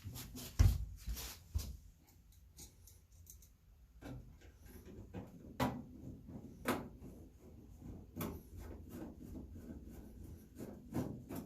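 Scattered knocks, clicks and rubbing as parts and hardware are handled, with a heavier thump about half a second in.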